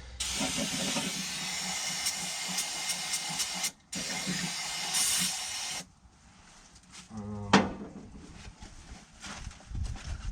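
Pressurized spray hissing in two long bursts, about three and a half seconds and then about two seconds, with a brief break between, then a single sharp metal clank.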